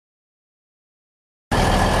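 Dead silence, then a diesel-hydraulic locomotive's engine cuts in abruptly about one and a half seconds in and runs steadily.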